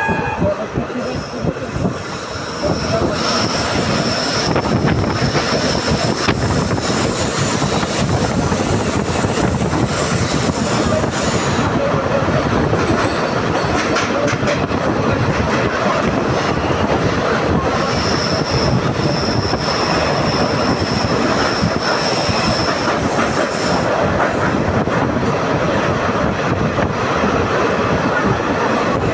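Passenger train running on the steep ghat climb, heard from inside a coach: a steady rumble and rattle of wheels on rail with clickety-clack. A high, thin wheel squeal comes in about a second in and lasts several seconds, then returns for about five seconds past the middle: the flanges grinding on the tight curves of the ghat line.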